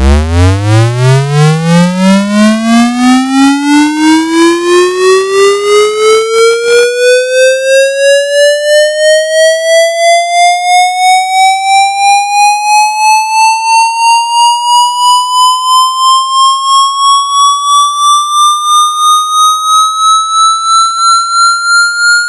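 Synthesized speaker-cleaning water-eject tone: an electronic tone with overtones sweeping steadily upward in pitch from a low hum to a high whistle. It rises quickly at first, then more slowly, and pulses evenly in loudness.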